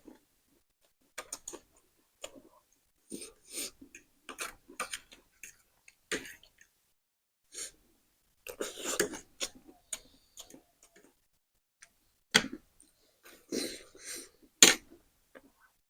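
Close-up eating sounds from spicy instant noodles: irregular mouth clicks, chewing and slurping, with a few sharper clicks, the loudest about twelve and fourteen seconds in.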